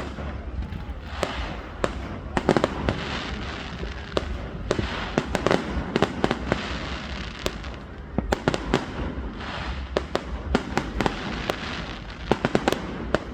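Fireworks display going off: a dense, irregular string of sharp bangs and crackles, with clusters of louder cracks.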